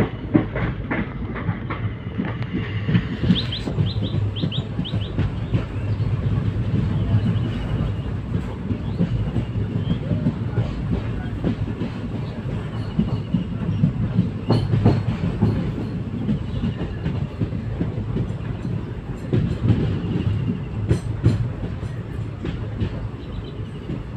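Passenger train running along the track, heard from inside a coach: a steady rumble of the wheels with irregular clacks and knocks from the rails.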